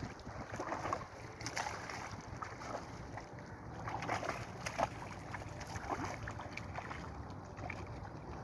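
Wind buffeting the microphone in open seaside air, a steady low rumble with scattered faint clicks and knocks.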